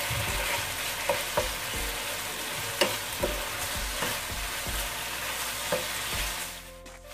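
Chicken in a thick yogurt-and-spice sauce sizzling in a non-stick frying pan, stirred with a wooden spatula that scrapes and taps the pan now and then, as the sauce is cooked down dry. The sizzle fades briefly near the end.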